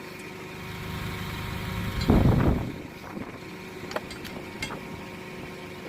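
An engine idles steadily under a low hum. About two seconds in there is a brief loud low rushing swell, and a few sharp clicks follow near the end.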